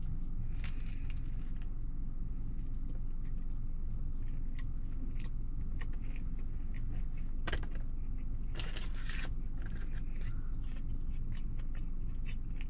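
Chewing a mouthful of bacon sandwich, many small crunchy clicks, with a louder crinkle of the foil sandwich wrapper about two-thirds of the way through. A steady low rumble runs underneath inside the car.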